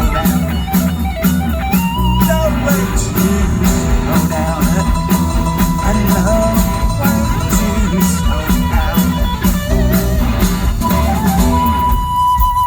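Live rock band playing an instrumental passage: a guitar line over bass and a steady drum beat.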